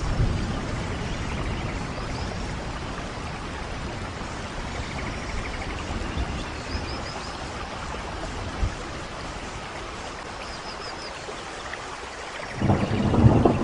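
Steady rain falling, with a low thunder rumble dying away at the start and another roll of thunder swelling up near the end.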